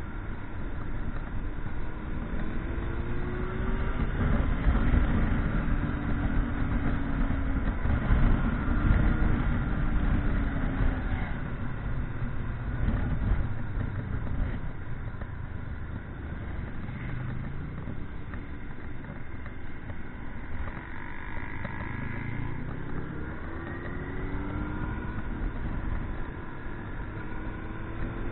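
Motorcycle under way, its engine pitch rising and falling with throttle and gear changes, over a steady rush of wind and road noise.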